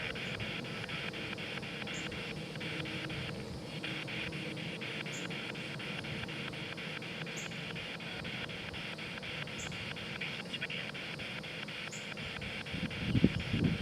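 Spirit box scanning through radio stations: steady static hiss chopped into rapid, even pulses, several a second. A louder low burst of sound comes near the end.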